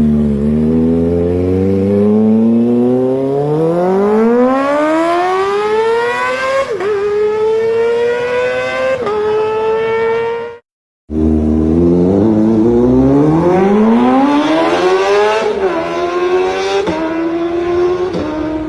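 Kawasaki ZX25R's 250 cc inline-four on an aftermarket exhaust, revving high as it accelerates through the gears, its pitch climbing and then dropping at each upshift. The sound cuts out briefly about halfway, and a second run with another exhaust climbs and shifts the same way.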